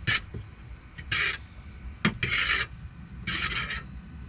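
Repeated rasping scrapes, four strokes about a second apart, over the steady chirring of crickets.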